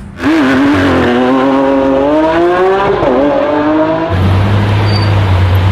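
Lamborghini Aventador's V12 engine accelerating hard, its pitch rising, with a brief dip about three seconds in at a gear change. About four seconds in the sound switches abruptly to a steady low engine rumble.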